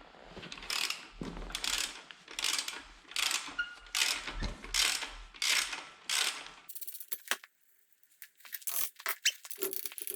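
Socket ratchet clicking in repeated strokes, about one every 0.7 s, as it loosens the swing arm bolt on a pit bike, followed near the end by a few short metallic clicks.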